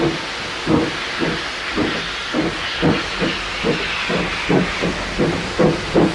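Steam locomotive chuffing as it gets under way, its exhaust beats quickening from well under two a second to about two and a half a second, over a steady hiss of steam.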